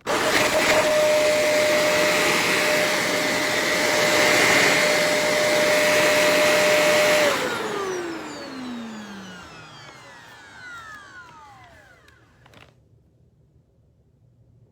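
Shark ZU782 upright vacuum cleaner switched on abruptly and running with a steady whine and rush of air for about seven seconds. It is then switched off, and the motor winds down with a falling whine that fades out over the next few seconds.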